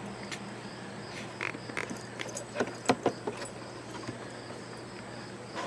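Steady high insect trill, with irregular clicks and rustles over it, the sharpest about three seconds in.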